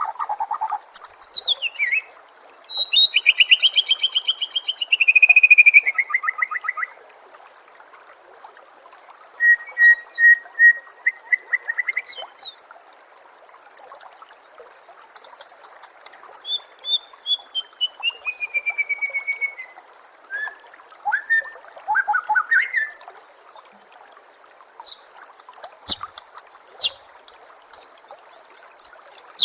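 White-rumped shama (murai batu) singing a varied series of phrases: quick trills, a loud warbled phrase that falls in pitch, runs of repeated notes, a falling whistle, and sharp ticking notes near the end, with pauses between. A steady faint hiss runs underneath.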